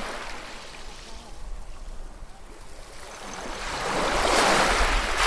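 Ocean waves washing onto a shore: a smaller surge at the start, then a bigger wave that builds from about three seconds in and breaks loudly near the end.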